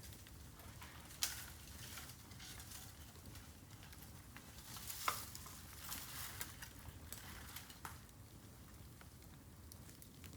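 Bamboo burning on an open fire: a steady sizzle and crackle broken by scattered sharp pops, the loudest about five seconds in.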